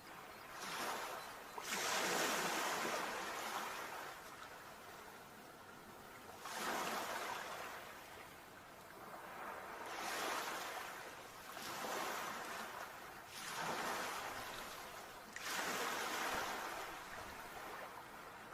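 Sea waves breaking and washing up the shore: a rush of surf that swells and fades every two to four seconds.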